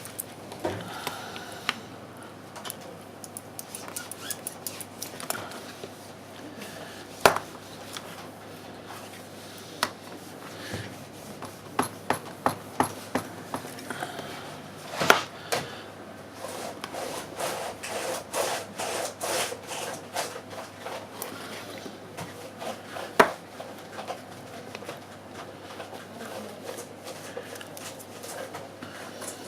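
Small hand tools scraping and clicking against an iPhone 6's screen and frame during screen-replacement work, with irregular rubbing and many light clicks. Three sharper clicks stand out, about a quarter, half and three-quarters of the way through.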